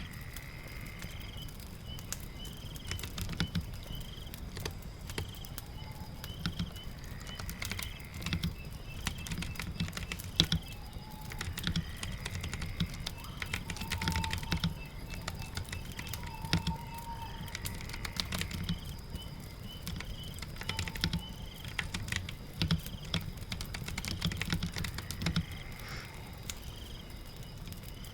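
Keystrokes on a keyboard, a fast irregular run of clicks and soft knocks, over a steady bed of rain and crackling fire.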